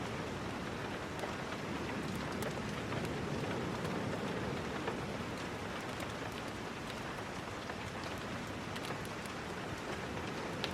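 Steady rain falling and pattering on surfaces, with scattered light ticks of individual drops.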